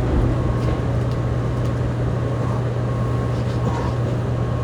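Fukuoka City Subway 2000-series train heard from inside the car while it slows for a station stop: a steady running rumble with a constant low hum, partly masked by air-conditioning noise.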